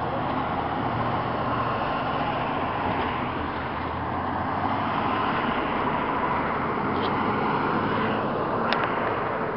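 Fire apparatus passing in a slow convoy, a steady mix of heavy truck engines running and road noise.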